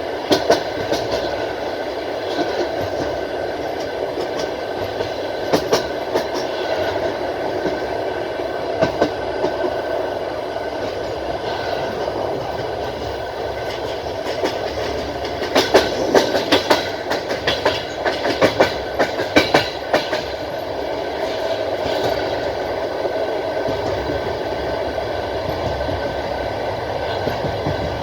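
Passenger train rolling along the track, a steady rumble with the clack of wheels over rail joints, several sharp clacks in a quick cluster about halfway through.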